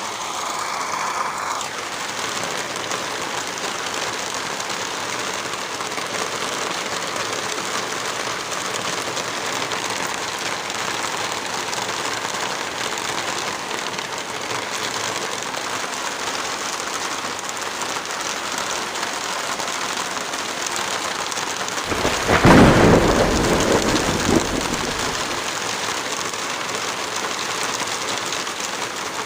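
Heavy rain falling steadily, an even hiss. About two-thirds of the way through, a deeper rumble rises over it for roughly three seconds and then fades back into the rain.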